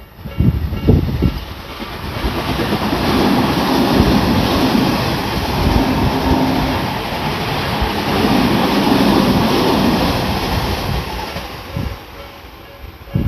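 Tobu Tojo Line electric train passing over a level crossing: sharp wheel knocks as it arrives, then a loud, steady rumble of wheels on rail for about nine seconds that fades near the end.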